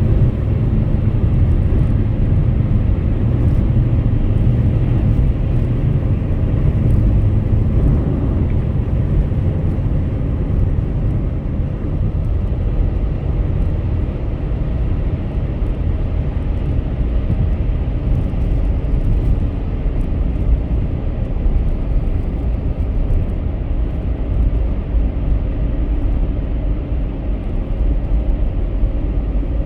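Car driving at highway speed: a steady low rumble of tyre and road noise with the engine beneath it.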